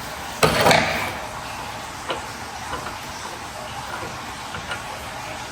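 A short metallic clatter about half a second in, followed by a few light clicks, as small metal parts of a pressure washer's pressure relief valve are handled.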